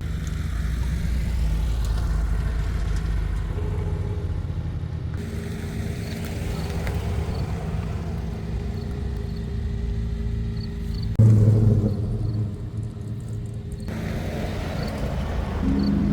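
Car engine running with a steady low rumble, in several cut-together stretches, with a louder low surge about eleven seconds in.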